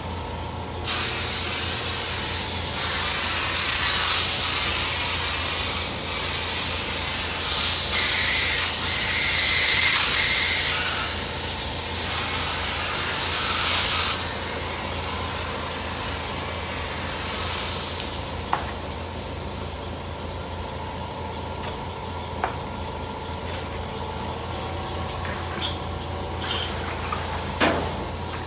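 A compressed-air paint spray gun spraying paint in long bursts of loud hiss for about the first half, then dropping to a softer hiss. A steady low hum from the air compressor runs underneath, and a few small knocks come near the end.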